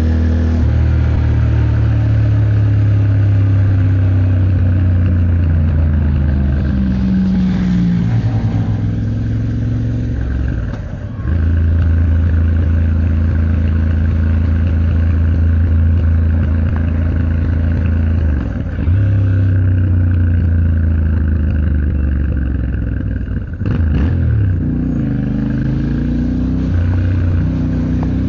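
Yamaha Ténéré 700's 689 cc parallel-twin engine running under way, its note rising and falling as the throttle opens and closes, with brief drops in level about 11, 19 and 24 seconds in. Road noise runs underneath, and there is a short sharp click near the third drop.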